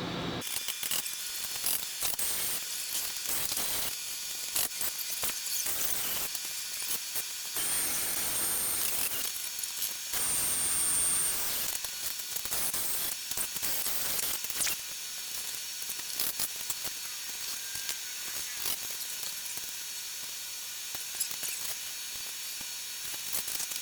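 Ratchet wrench clicking in quick runs as bolts are tightened through the top of a snow plow to fasten a wind deflector strip.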